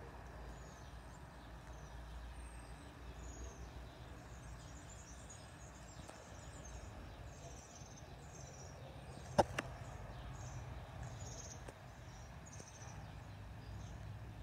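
Small birds chirping in short, repeated high calls over a steady low rumble of background noise. About nine seconds in comes a sharp click, the loudest sound, followed at once by a fainter second one.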